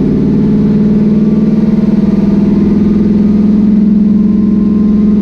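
Twin-turbo 376-cubic-inch LS V8 running steadily at a constant low speed with no revving, heard loud from inside the car's cabin.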